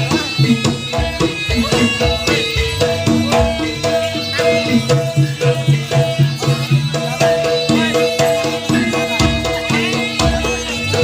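Live jaranan (kuda lumping) folk ensemble music: hand drums playing a busy beat under sustained pitched instrument notes.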